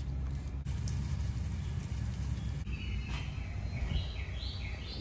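A low, steady outdoor rumble. From a little past halfway a bird chirps, a quick run of short calls stepping up in pitch.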